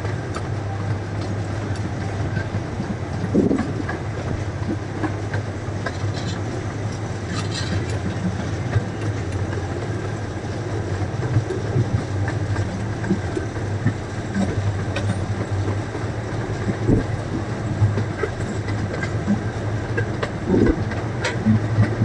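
Small zoo ride train running along its track: a steady low rumble and hum, with irregular clicks and knocks from the wheels on the rails.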